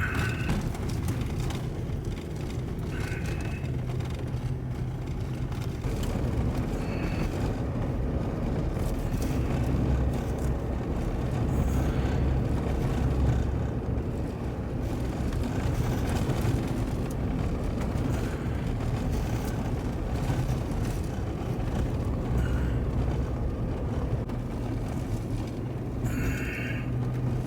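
A car driving at steady speed: continuous engine hum and tyre noise, with a few brief faint higher sounds over it.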